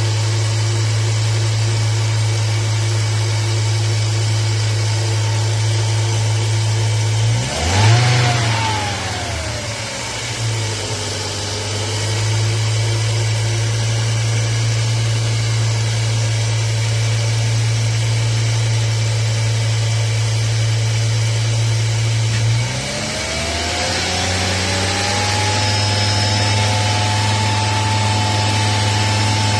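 Volvo 850 2.0 10-valve five-cylinder engine idling. About 7 s in the revs surge briefly and sag before settling back to a steady idle. About 23 s in the sound changes again, with a tone rising and then holding. This is the engine reacting as the connector of its idle air control valve, suspected faulty, is pulled and refitted.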